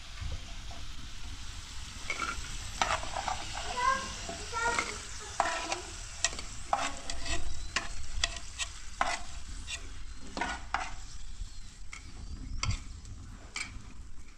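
Potato sticks frying in hot oil in a metal pan, a steady sizzle throughout, broken by frequent sharp ticks and taps.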